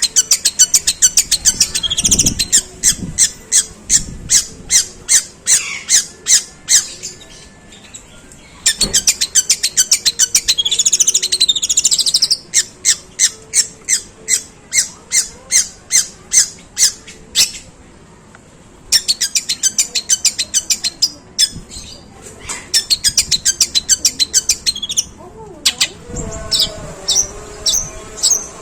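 Long-tailed shrike (pentet) singing long, harsh runs of rapid sharp chips in imitation of tree sparrow calls. The chattering comes in long runs broken by brief pauses, and a lower wavering tone joins near the end.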